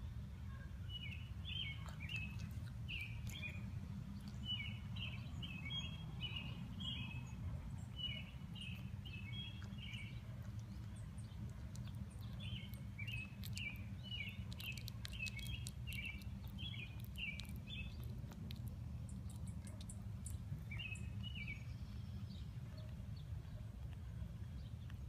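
Birds chirping in runs of short, high notes, several seconds at a time with gaps between, over a steady low hum.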